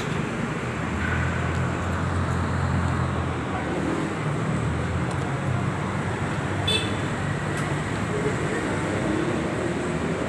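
Yamaha R15 V3's 155 cc single-cylinder engine running steadily through an aftermarket CLD Monster X undertail twin-silencer exhaust, a low, deep exhaust note held at an even pitch.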